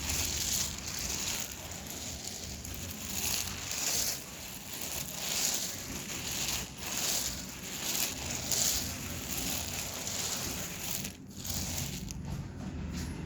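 Dry edible clay being crushed, a crisp crunch roughly once a second that thins out near the end.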